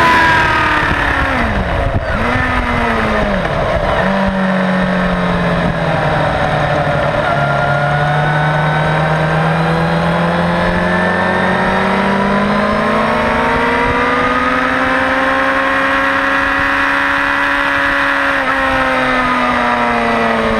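Suzuki GSX-R600 K4's inline-four engine on the overrun, its revs dropping sharply through downshifts over the first few seconds with wind rush, then running at low, steady revs that climb slowly as the bike rides on at low speed.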